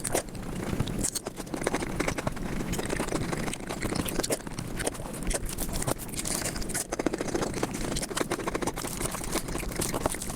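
A person eating close to the microphone, played back at about five times normal speed: chewing, crunching and utensil scraping run together into a dense stream of quick clicks and crackles.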